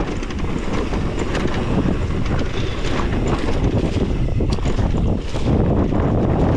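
Wind buffeting the microphone of a mountain biker's action camera during a fast trail descent, with a steady rumble of tyres on dirt and frequent light clicks and rattles from the bike.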